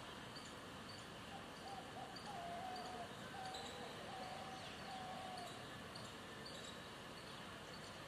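Faint background with small birds chirping in short repeated notes, and a faint wavering tone for a few seconds in the middle.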